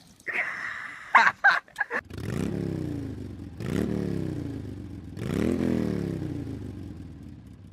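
A vehicle engine revved three times, each rev climbing quickly and then slowly dying away, after a few sharp clattering clicks in the first couple of seconds.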